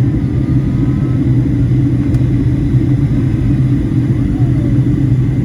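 Steady rumble of an airliner cabin in flight: engine and airflow noise with a faint steady whine.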